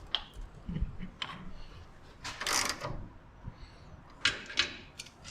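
Metal parts and hand tools clinking and knocking during work on a truck's front suspension: a few sharp clicks and a short scraping rattle about halfway through.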